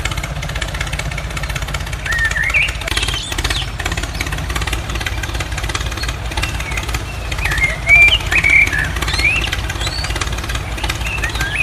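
Tractor-style engine running with a steady low chugging rumble, and short bird-like chirps over it twice.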